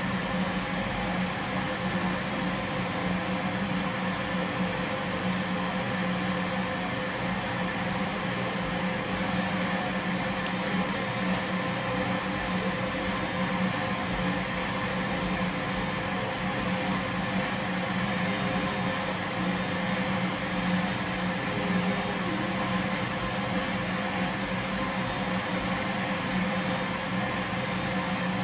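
Vacuum cleaner running steadily: a continuous low hum with an even hiss over it, mixed with soft rain.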